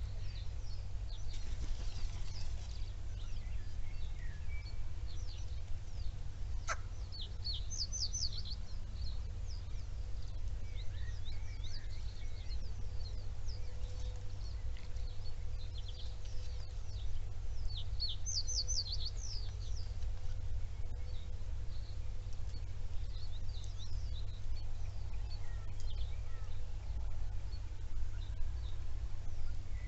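Bird calls: scattered high chirps and short runs of quick falling notes, bunched about eight seconds in and again around eighteen seconds, over a steady low rumble.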